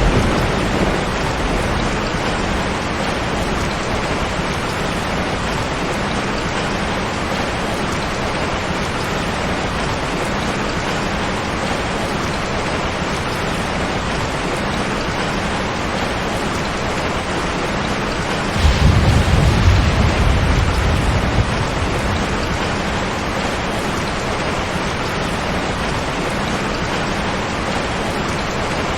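Steady heavy rain, a dense even hiss. About two-thirds of the way through, a low rumble of thunder swells for about three seconds, then the rain carries on alone.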